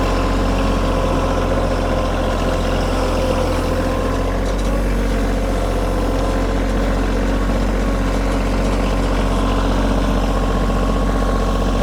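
Kioti compact tractor's diesel engine running steadily as the tractor works back and forth over the gravel driveway.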